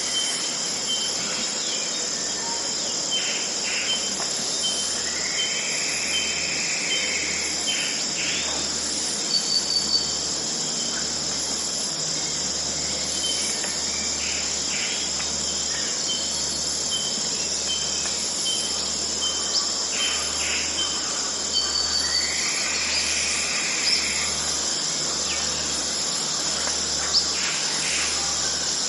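Dense, steady chorus of insects with a high, even buzz, and scattered short bird calls and chirps over it.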